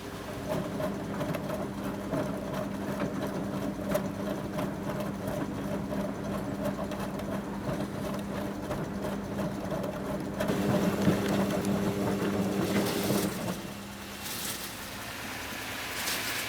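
1974 Zoppas Superautomatic 242 washing machine running its wash cycle, the motor turning the drum with a steady hum. The motor stops briefly near the end and starts again.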